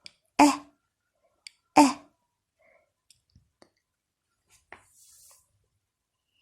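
A voice saying two short syllables about a second and a half apart, then a few faint clicks and a brief soft hiss.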